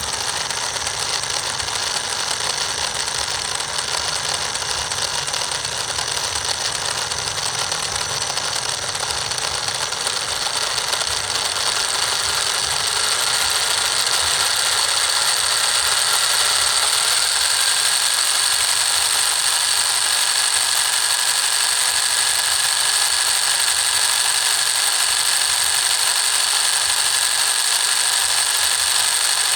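Small motor of a miniature model tractor engine running with a steady high-pitched whine, getting louder about thirteen seconds in and holding there.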